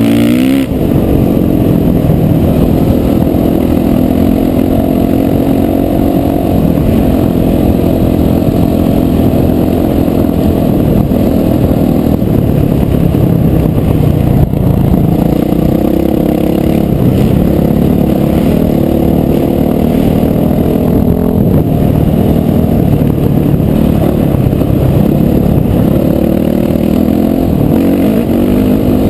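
Off-road motorcycle engine running under throttle, its pitch rising and falling as the rider speeds up and eases off.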